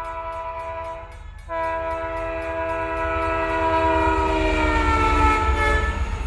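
Train horn blowing a long blast, breaking off about a second in, then sounding again with its pitch falling as the train passes. Under it a low rumble from the train grows, and a level-crossing bell rings rapidly at the start.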